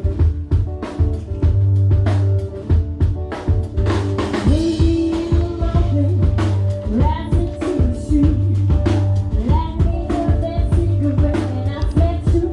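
Live band playing a song: a drum kit keeps a steady beat under held bass notes, with a voice singing in places.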